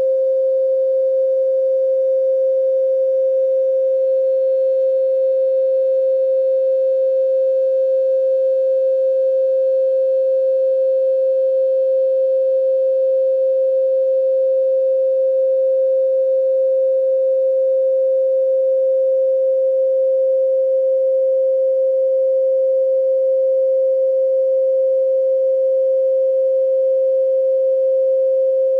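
A steady, electronically generated 528 Hz pure sine tone, held at one unchanging pitch and loudness.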